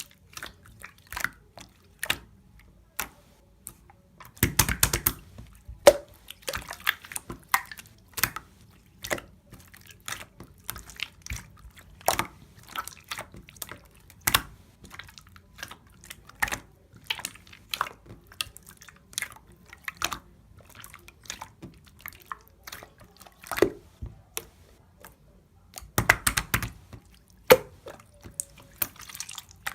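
A long run of irregular, closely spaced small clicks and taps with a wet, dripping quality, several a second, with two denser flurries, about four seconds in and near the end.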